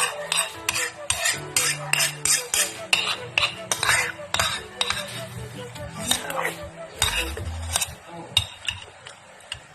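Spoon clinking and scraping against a dish in quick repeated strikes while noodles are scooped up and eaten, thinning out near the end.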